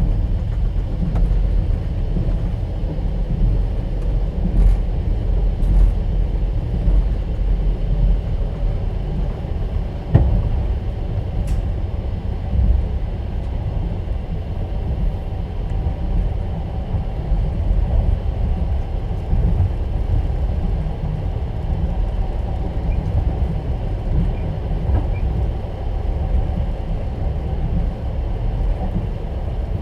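Passenger train running, heard from inside a platzkart sleeper carriage: a steady low rumble of wheels on rails, with a few brief knocks and clicks scattered through it.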